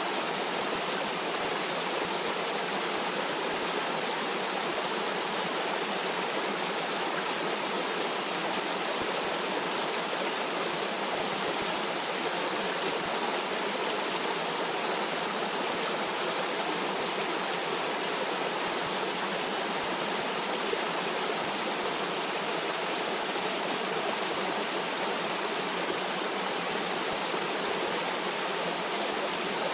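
Stream water running steadily, an even rushing noise with no breaks or separate splashes.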